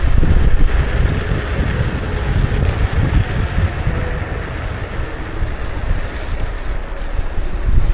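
Wind buffeting the action camera's microphone during a ride on a Kukirin G2 electric scooter: a loud, steady rumble with gusts rising and falling.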